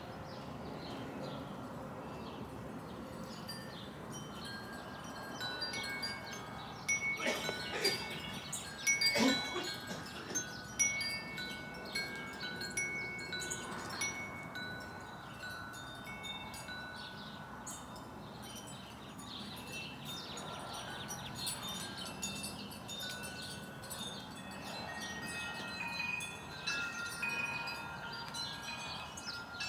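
Wind chimes ringing irregularly in the breeze, many tones overlapping and sounding on. A few louder knocks come about a quarter of the way in.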